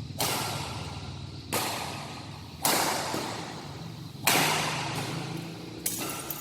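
Badminton rackets striking a shuttlecock in a rally: five sharp hits about a second and a half apart, each echoing in a large hall.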